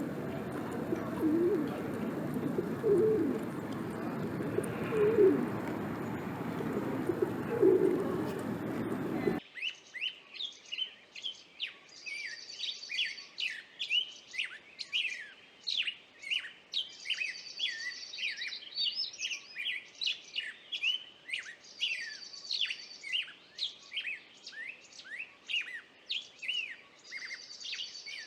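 A dove or pigeon cooing, four low coos a couple of seconds apart over a steady hiss. About nine seconds in the sound cuts abruptly to small songbirds chirping rapidly, with repeated buzzy trills.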